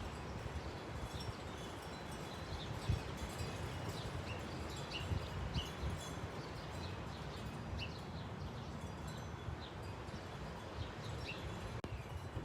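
Wind buffeting the microphone as a low, uneven rumble, with scattered short high notes every second or so.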